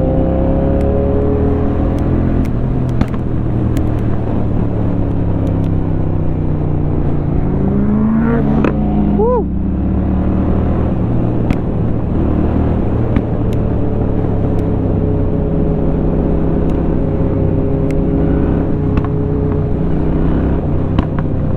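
Honda Shadow 750's V-twin engine running under way, its pitch rising and falling as the revs change through the ride. About nine seconds in, a brief tone swoops up and back down over the engine.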